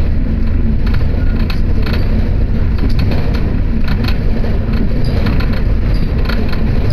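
Electric train running on the Akō Line, heard from inside the carriage: a steady low rumble with scattered short clicks.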